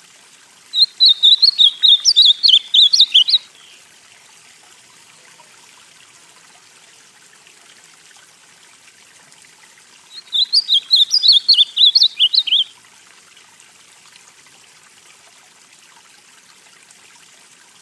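Male ultramarine grosbeak (azulão) of the northeastern Brazilian song type singing two phrases of rapid, warbled whistled notes, each about two and a half seconds long and some seven seconds apart.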